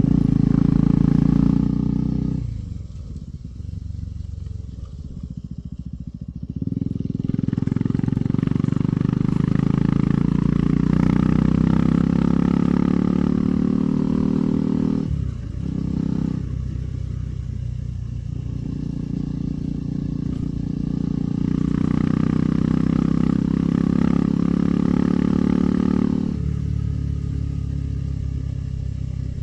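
KTM 390 Adventure's single-cylinder engine pulling along, with the throttle rolled off about two seconds in and opened again a few seconds later. There is a brief dip in the middle, and it eases off again near the end.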